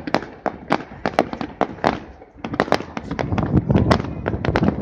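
Fireworks display: a rapid run of sharp bangs and crackles, growing denser with a heavier low rumble from about halfway through.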